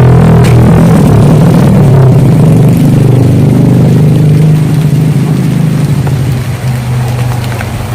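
An engine droning loudly with a steady pitch, then fading away over the last few seconds, over the noise of rain.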